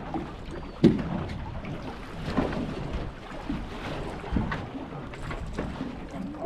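Wind buffeting the microphone over a small boat on the water, with irregular knocks on the hull or deck; the sharpest knock comes about a second in.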